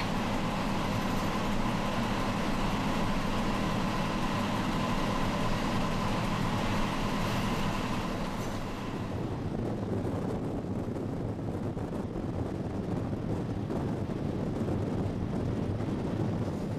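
Train running on the rails, heard from on board: a steady rolling noise with a fixed hum under it. About nine seconds in it changes to a lower, duller rumble with less hiss as the train rolls through station trackwork.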